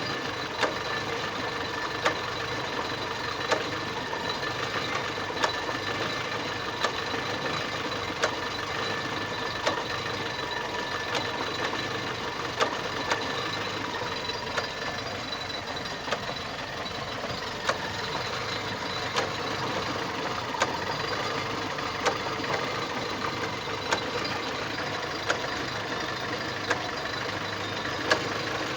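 Chevrolet Lanos engine running steadily, with a sharp click or knock about every one and a half seconds. The cause of the knock is unknown to the owner.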